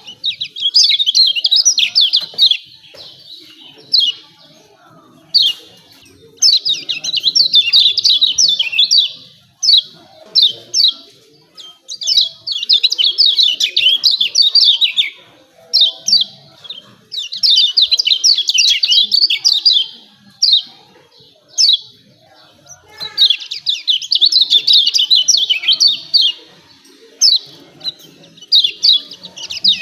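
Kecial kuning (a white-eye) giving its 'ciak ciak' chattering call: bouts of rapid high chirps, each lasting two to three seconds, broken by pauses with single sharp chirps.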